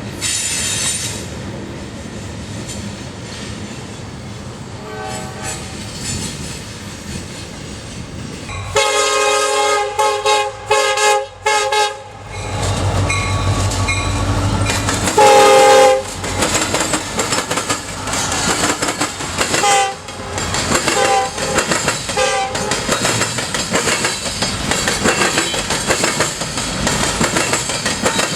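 Diesel freight locomotive's air horn sounding a series of loud blasts starting about nine seconds in, with the deep rumble of the engine as the locomotive passes. Shorter horn blasts come near the middle, followed by the steady rolling and clatter of the freight cars.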